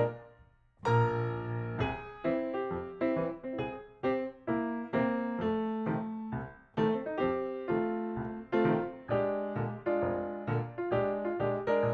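Background piano music: a melody of struck notes over chords at a steady pace, with a short pause near the start.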